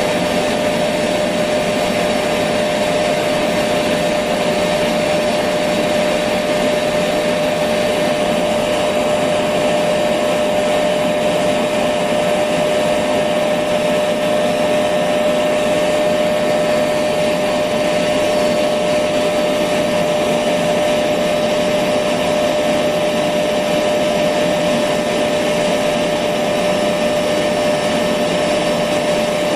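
Electric vacuum cleaner running steadily, a constant rushing noise with a steady whine from its motor.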